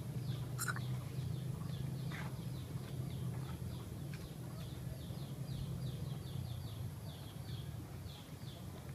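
A small bird calling over and over: short, high chirps that fall in pitch, about two or three a second, over a steady low rumble.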